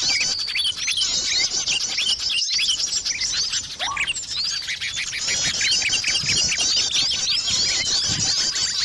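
Dense chorus of many small birds chirping and twittering, high rapid calls overlapping without pause. It is a bird-luring (pikat) recording, played to draw small birds in.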